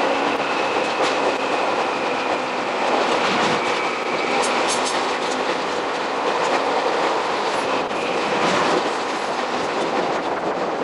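Jomo Electric Railway 700 series electric train running on track, heard from inside the car: steady running noise with fast, dense clicking of the wheels over the rails. It plays sped up, as is the whole ride.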